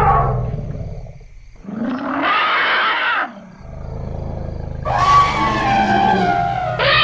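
Elephants trumpeting and calling in a string of separate calls. One call fades out in the first second, another comes about two seconds in and lasts over a second, and a longer one starts about five seconds in, with a low rumble beneath it. A fresh call begins near the end.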